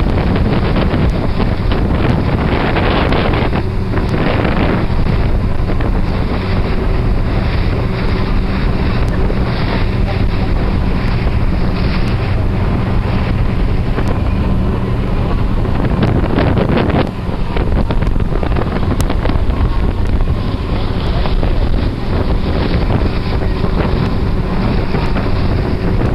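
Boat engine running steadily under way, a constant low drone, with wind buffeting the microphone throughout.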